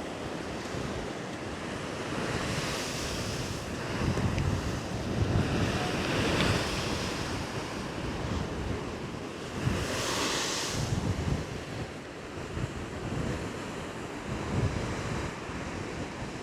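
Storm waves breaking against a sea wall in a continuous rough roar that surges several times, with wind buffeting the microphone. The strongest surge, a hissing rush of water and spray, comes about ten seconds in.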